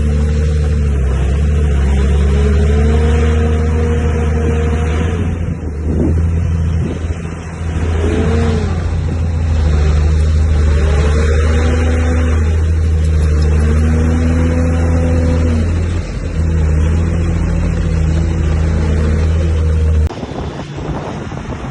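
Heavy diesel engine of earthmoving machinery working under load: a deep steady drone whose pitch rises and falls again and again as the throttle and load change. It cuts off abruptly near the end, leaving quieter engine noise.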